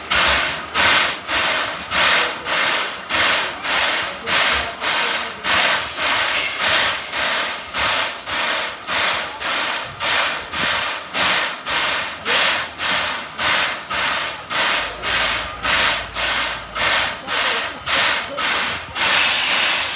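Steam locomotive chuffing slowly while shunting: an even, regular beat of exhaust blasts, about two a second.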